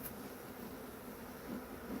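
Honeybees buzzing in flight close around the microphone, a steady hum with a few louder swells as single bees pass near, about one and a half seconds in and again near the end.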